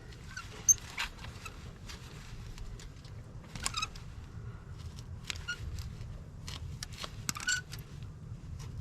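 Scattered, irregular metallic clicks and clinks of hand tools as a broken exhaust manifold bolt, just loosened, is turned out by hand with a bolt-extractor socket.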